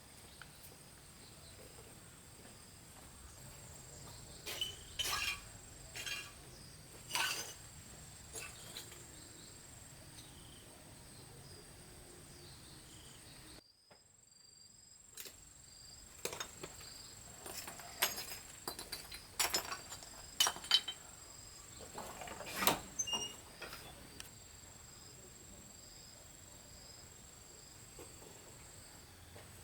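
Insects droning steadily in a high, continuous chirr, with scattered sharp clicks and knocks over it, most of them in the second half.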